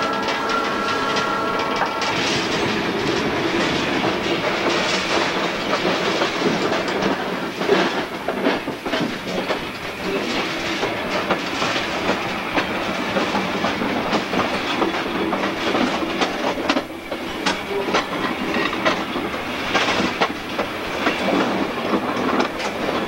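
Train rolling over jointed track and through switches, heard from the locomotive's open front platform: a steady running noise with repeated clicks and clacks of the wheels over the rail joints. A faint steady tone sounds briefly at the start.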